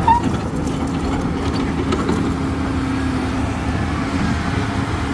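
Heavy diesel engine of an excavator running steadily with a low rumble, and a brief high squeak right at the start.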